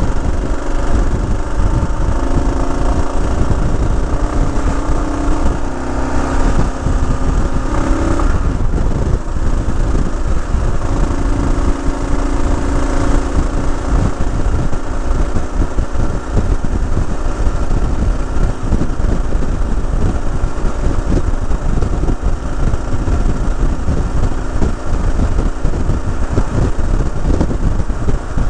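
Motorcycle riding along with heavy wind rush on the microphone. The engine note climbs for several seconds, drops suddenly about eight seconds in like a gear change, then climbs again.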